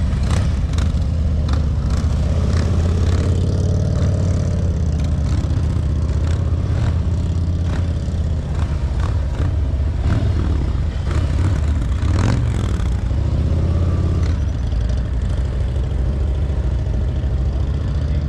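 Motorcycle engine running at low revs with small throttle changes during slow, tight-turn riding, with scattered clicks and clatter over it.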